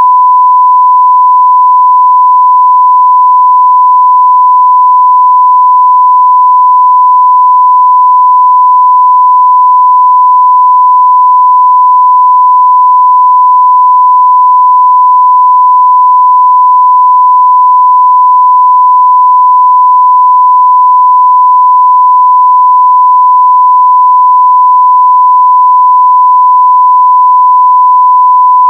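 Continuous 1 kHz sine-wave test tone at a steady, high level, with no change in pitch or loudness.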